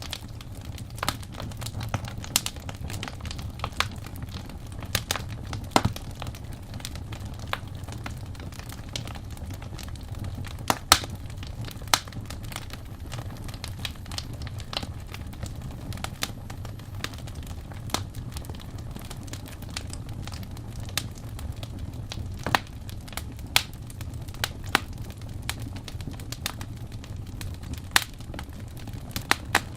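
Wood fire crackling in a fireplace: irregular sharp pops and snaps over a steady low rumble, with a louder pop about eleven seconds in.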